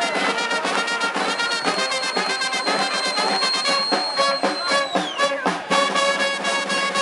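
Brass band playing, with trumpets and trombones over a steady beat. A high steady tone is held for about three and a half seconds and then drops away.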